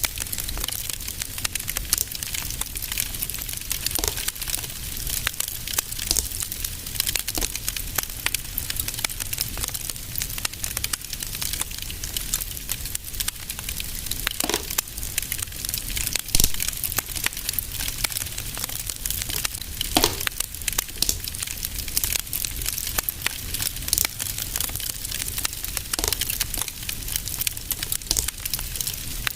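Fire crackling in a fireplace: a steady hiss with frequent, irregular sharp pops and crackles over a low steady rumble. One pop stands out, louder, about 16 seconds in.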